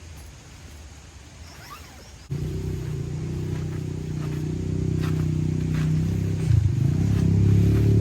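A vehicle engine running with a steady low hum, cutting in suddenly a couple of seconds in and growing louder toward the end. Before it, only faint outdoor background.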